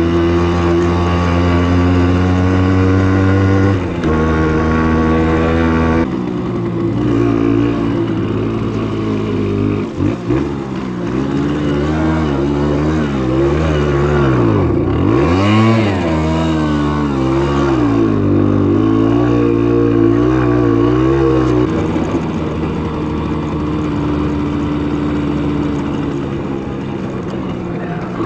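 Simson S51 enduro's 50 cc two-stroke single-cylinder engine running under way. It holds steady at first and drops in pitch twice in the first six seconds. Through the middle the revs rise and fall repeatedly, with one deep drop about halfway, and they settle to a steady pitch for the last few seconds.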